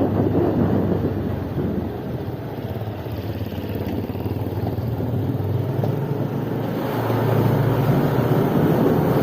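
A motor vehicle on the move: a steady engine hum with rushing noise, growing louder in the last couple of seconds.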